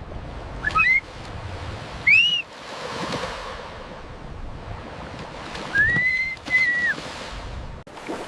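High whistled chirps that glide up and down, a short one about a second in, another near two seconds, and a longer two-part one around six seconds, over a steady wash of flowing water.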